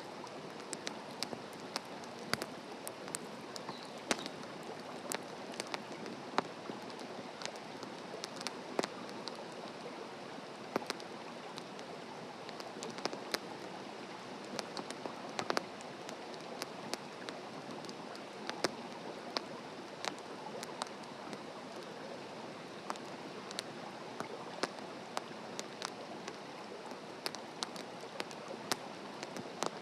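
Wood fire burning in a campfire stand: a steady hiss with frequent, irregular sharp crackles and pops from the burning wood.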